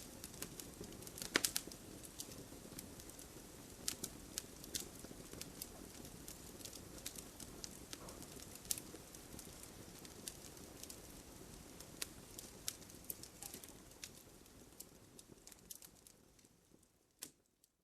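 Wood fire in a fireplace crackling, with frequent sharp pops and snaps over a low, steady rustle of flame. The sound fades out over the last couple of seconds.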